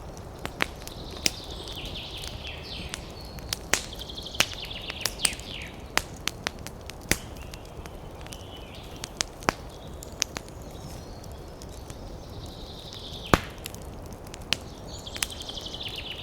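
Wood fire crackling, with irregular sharp pops and snaps over a low steady hiss; the loudest pop comes about thirteen seconds in. Several short bursts of high, rapid bird chirping sound behind it.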